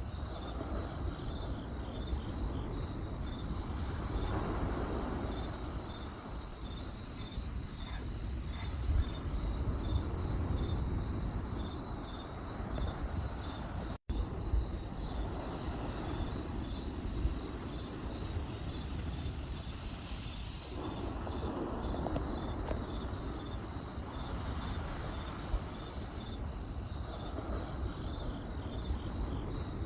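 Crickets chirping in a steady, pulsing high trill over the low, even rumble of a campfire, with a few sharp crackles from the burning wood. The sound cuts out completely for an instant about halfway through.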